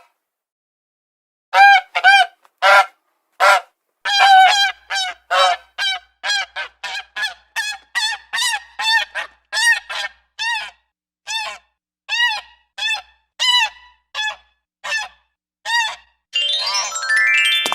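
Domestic geese honking: a long run of short honks in quick, irregular succession, some overlapping. A short rising musical chime starts near the end.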